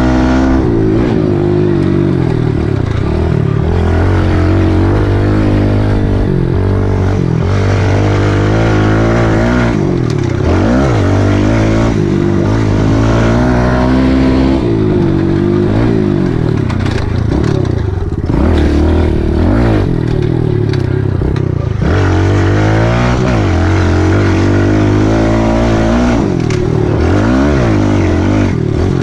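Kawasaki KLX110L pit bike's small single-cylinder four-stroke engine under way, loud, its pitch climbing and dropping over and over as the rider works the throttle and shifts.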